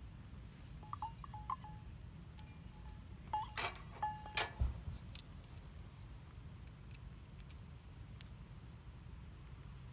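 Metal camp cookware and utensils clinking as they are handled: a few light clicks about a second in, then a cluster of sharper clinks with short ringing tones between about three and a half and four and a half seconds in, over a low steady background rumble.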